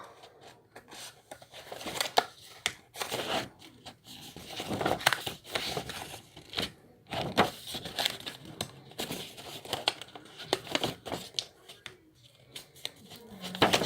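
A sheet of paper rustling and crackling in irregular short bursts as it is folded and creased by hand into a triangle for a paper airplane.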